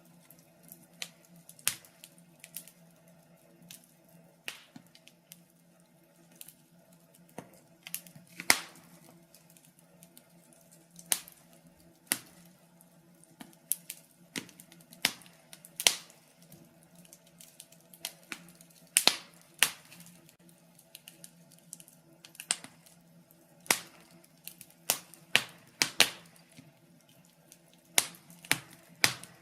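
Wood fire crackling: logs burning in a fireplace, giving irregular sharp pops and snaps, some in quick clusters, over a faint steady low hum.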